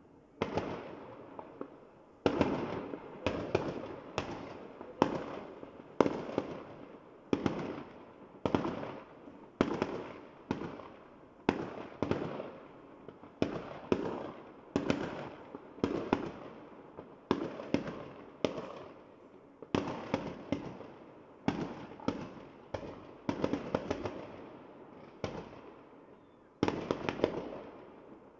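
Aerial firework shells bursting in quick succession, about one bang a second, each sharp report trailing off in a short rolling decay.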